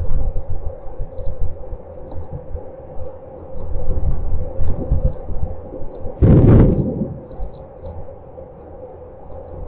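A rainstorm heard through a CCTV camera's microphone: wind rumbling and buffeting the microphone over a steady electrical hum, with faint scattered ticks of rain. A louder rushing burst comes about six seconds in.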